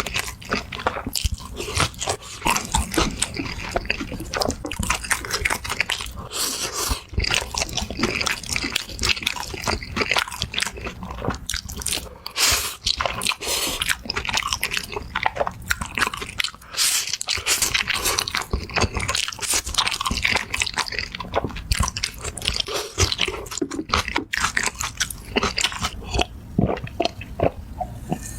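Close-miked eating: a person biting into and chewing crunchy food, with dense, irregular crunching and crackling.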